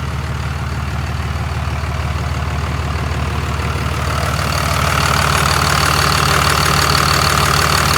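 Cummins 24-valve diesel engine running steadily, getting louder about four to five seconds in.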